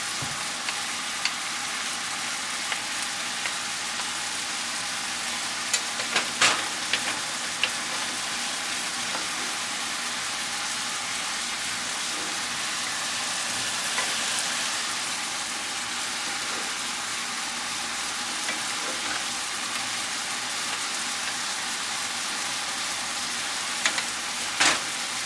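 Pork pieces frying in a pan with a steady sizzle, and a few sharp clicks of metal spoons against the pan as they are turned.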